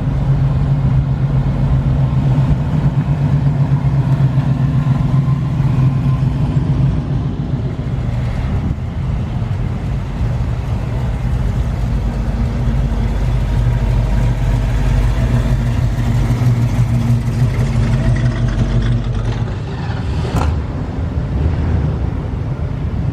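Car engine running with a steady low note. A short sharp click comes near the end.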